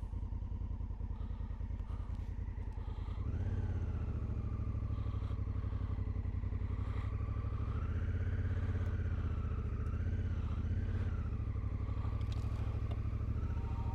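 Adventure motorcycle engine running at low revs, a little louder from about three seconds in, with a faint wavering whine above it.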